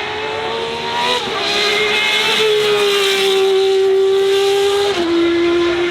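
Racing car engine at high revs under load, its pitch climbing and then stepping down at gear changes about a second in and again about five seconds in.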